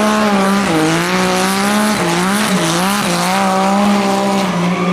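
Car engine running at high revs, its pitch dipping and climbing back several times with throttle lifts, over a steady hiss of squealing tyres as the car drifts.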